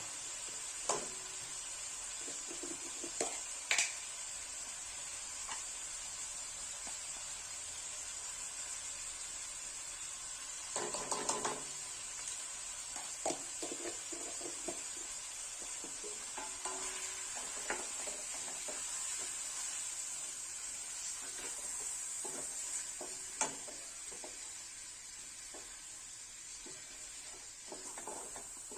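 Food sizzling in a cooking pot, a steady hiss, while a utensil stirs and knocks against the pot now and then, with a short burst of clatter about a third of the way through.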